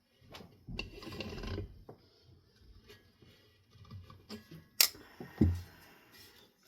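Metal parts of a ceiling fan being handled and fitted together: about a second of rubbing and scraping, then a sharp click and a low thump near the end.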